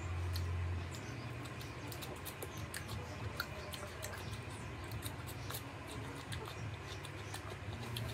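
Close-miked eating: chewing and lip-smacking, heard as many small scattered wet clicks, over a steady low hum that is louder for the first second.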